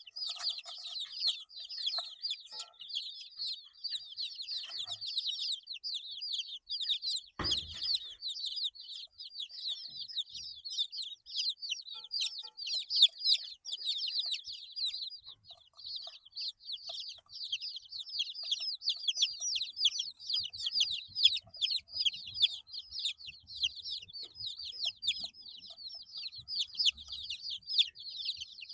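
A brood of 8-day-old chicks peeping constantly, many short high, downward-sliding peeps overlapping with no break. A single sharp knock about seven seconds in.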